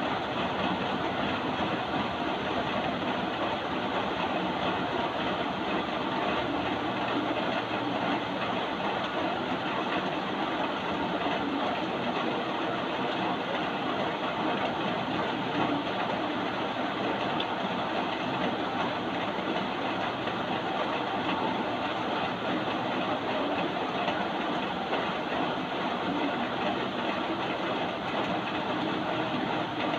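Steady, even rain noise, unbroken throughout.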